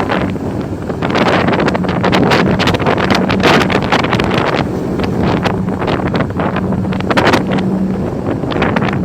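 Wind buffeting the microphone in irregular gusts, over a steady low hum from a boat's engine.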